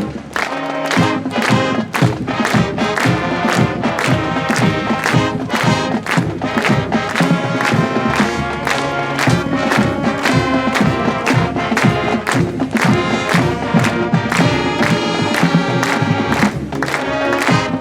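Marching band's brass and drums playing a school pep song at a steady march beat of about two beats a second, with crowd noise from the audience.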